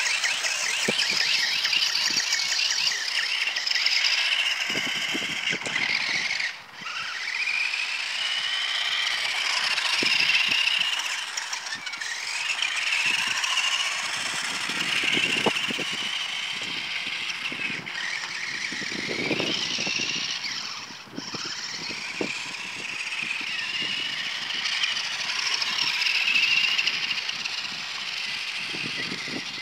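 Radio-controlled toy car's electric motor and gears whining, the pitch gliding up and down as the car speeds up and slows. The whine drops away briefly twice and winds back up each time.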